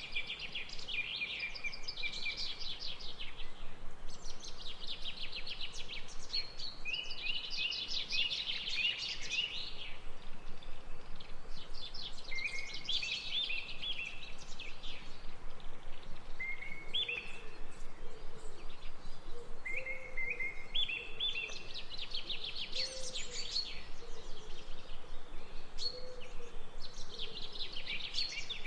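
Birds singing: phrases of rapid chirping trills and stepped high notes, repeated every few seconds, with faint low calls recurring in the second half.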